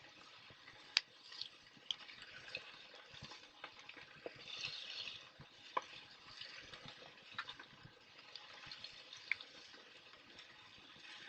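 Wood fire burning: a steady hiss with scattered sharp crackles and pops, the loudest about a second in.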